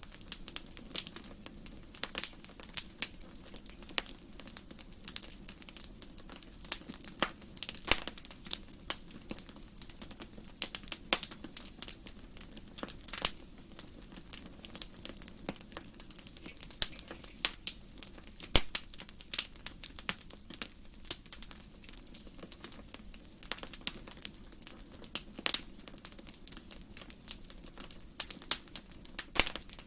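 Wood fire burning in a fireplace, crackling and popping with irregular sharp snaps over a low steady rush of flame.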